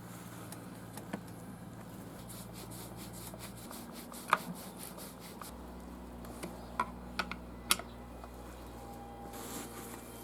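Scattered light clicks and taps of small parts and hand tools being handled during brush cutter servicing, including a quick run of faint ticks and one sharper click about four seconds in, over a faint steady hum.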